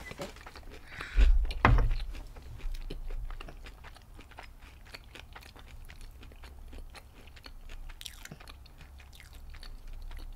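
Close-up chewing of fried shrimp, wet mouth sounds with many small crisp clicks throughout. Two dull thumps come about a second and a half in.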